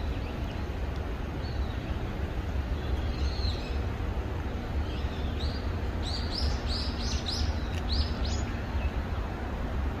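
A small songbird calling in high, shrill notes: a couple of faint ones, then a quick run of about eight rising notes from about five seconds in. A steady low rumble runs underneath.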